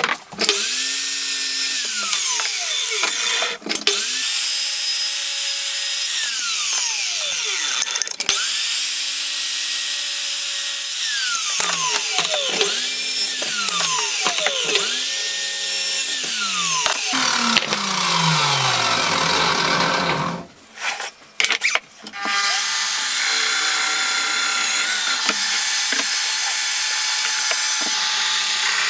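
Power tool motor run in several short bursts, each spinning up, holding about a second or two and winding down in pitch, with one longer wind-down a little before the middle. After a brief pause comes a steady, continuous tool run.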